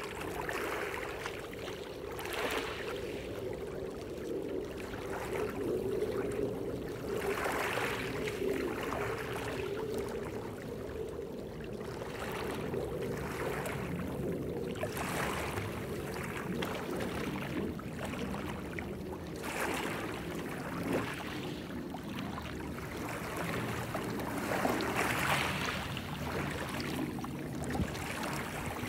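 Waves washing ashore, a rushing swell of surf every few seconds, with a faint steady hum underneath in the first half.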